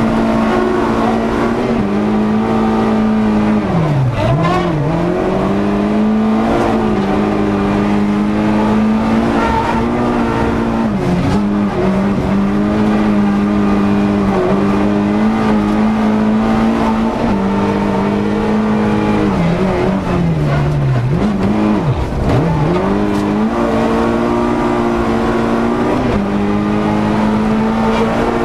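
Volkswagen Golf rally car's four-cylinder engine, heard from inside the cabin, held at high revs at full throttle. Its pitch drops sharply and climbs back several times, about four seconds in, near eleven seconds and twice in a row after twenty seconds, as the driver lifts off and changes gear for corners.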